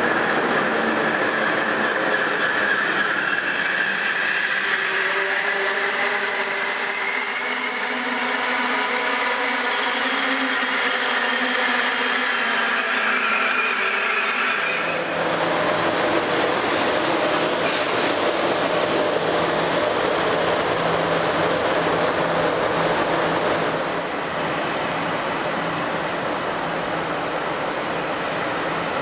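Renfe AVE high-speed train moving along a station platform, with a high steady whistle and shifting, rising whining tones over the running noise. About fifteen seconds in, the sound changes abruptly to a noisier train rumble with a low steady hum.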